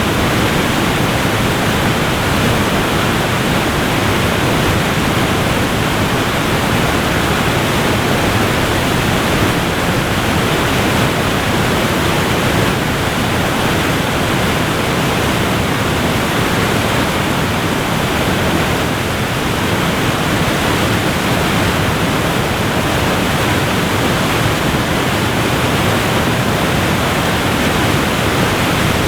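Waterfall rushing steadily: a dense, even roar of falling water with no breaks.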